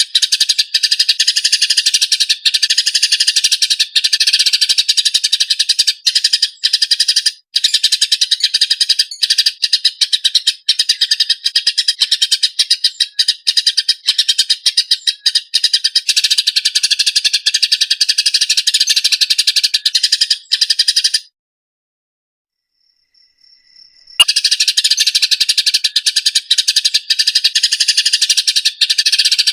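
A small songbird's loud, dense, rapid trilling and chirping song, used as a training recording for cage birds. It stops abruptly about 21 seconds in and resumes about three seconds later.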